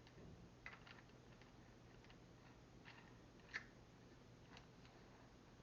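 Near silence, with a few faint clicks and taps from handling tools and parts; the clearest comes about three and a half seconds in.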